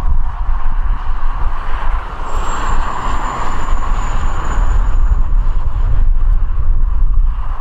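A jet airliner's engines running as it comes in to land in a storm, with strong wind buffeting the microphone. A thin high engine whine comes in about two seconds in, falls slightly in pitch and fades near the end.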